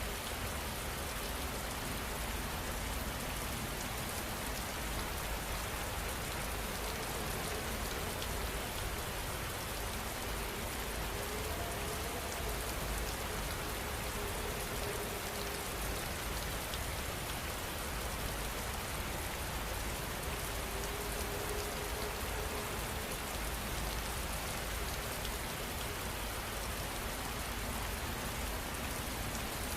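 Steady heavy rain, an even hiss of drops falling on surfaces.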